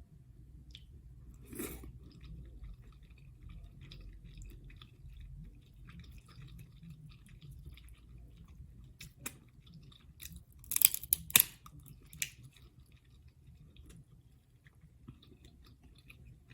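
Close-up chewing of buttery seafood (crab legs and shrimp), with soft wet mouth sounds and light ticks. There is a sharp click about a second and a half in, and a loud cluster of sharp clicks or cracks about eleven seconds in.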